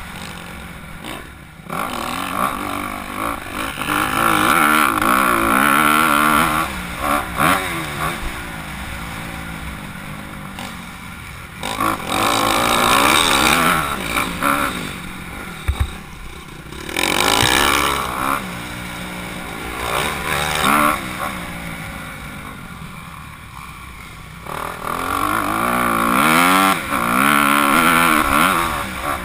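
Motocross bike engine, a Honda CRF250R's four-stroke single, revving hard and shifting through the gears, its pitch climbing and falling over and over. It swells loud several times as the bike comes near and fades between passes.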